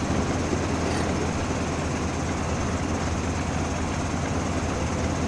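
Steady low rumble of a train, even and unchanging throughout.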